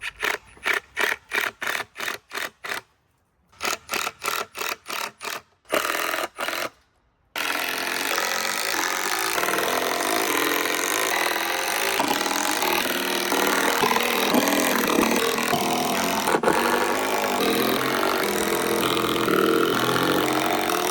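Power driver driving screws into wooden boards. First come short sharp bursts about four a second, broken by two brief pauses, then from about seven seconds a continuous dense noise that stops abruptly near the end.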